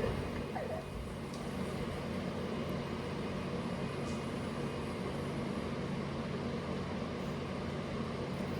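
Gas-engine pressure washer running steadily, a low engine hum under an even hiss.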